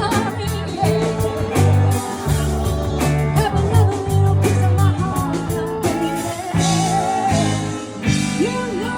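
Rock music: a singer over electric guitar, bass and drums with a steady beat.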